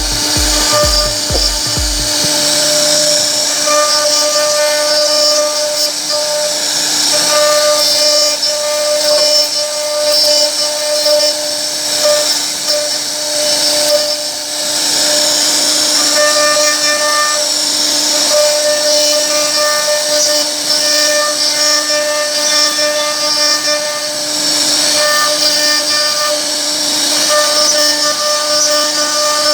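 CNC router spindle running with a steady whine while its bit cuts a pocket into wood.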